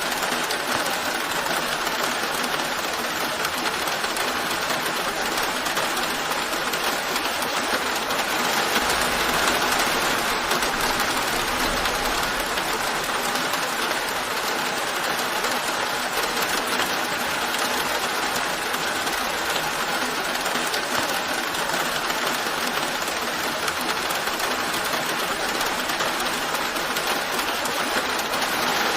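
Steady rain falling, an even unbroken hiss of rainfall.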